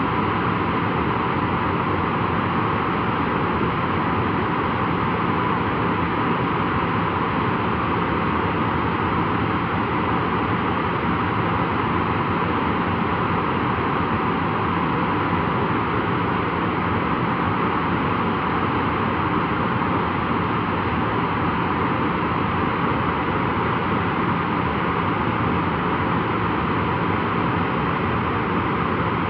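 Boeing 737-400's CFM56-3 turbofan engines running steadily at ground idle during an engine run-up. The sound is an even rushing noise with a steady whine, holding the same level throughout.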